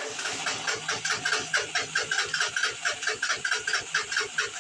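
An engine running with an even pulsing beat, about four to five beats a second.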